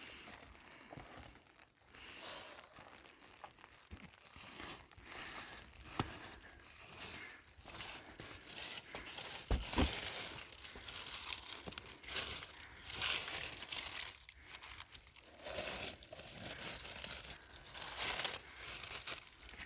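Dry leaves and kindling being gathered and handled for a fire: irregular rustling and crinkling, with a couple of sharp snaps.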